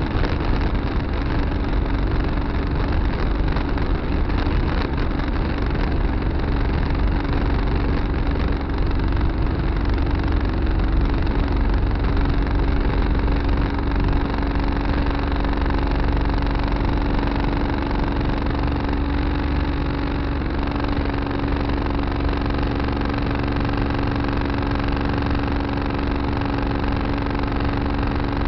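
Tractor engine running steadily at an even speed, with a constant low hum.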